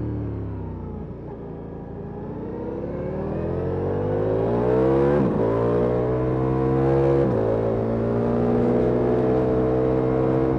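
Ducati Multistrada V4S Rally's V4 engine through an Akrapovic exhaust. It winds down as the throttle closes, then pulls hard with the revs climbing steadily, with two quick upshifts about five and seven seconds in before it holds high revs.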